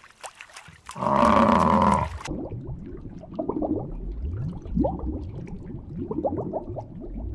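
A large animal's loud call lasting about a second, then a run of shorter, quieter calls, several rising in pitch.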